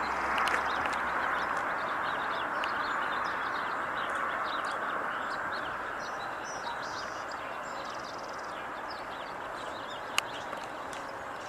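Small birds chirping and twittering throughout over a steady rushing background noise that slowly fades, with one sharp click about ten seconds in.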